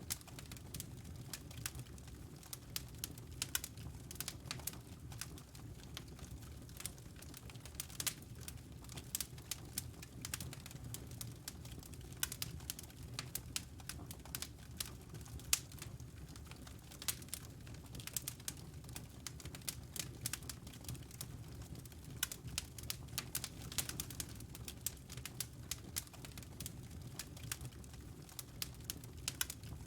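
Fireplace fire burning, with frequent irregular sharp crackles and pops over a low, steady rumble of flame.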